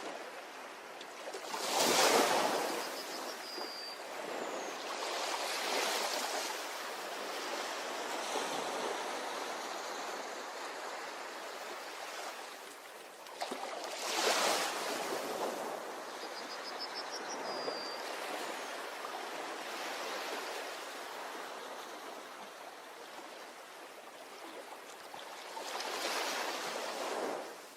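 Ocean waves breaking on a beach: three surges about twelve seconds apart over a steady wash of surf. A faint, short high trill comes twice.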